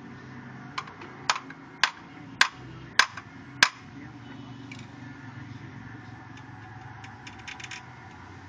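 Hammer striking metal on a ceiling fan during a bearing change: six sharp strikes, a little under two a second, growing louder, then a few light clicks near the end.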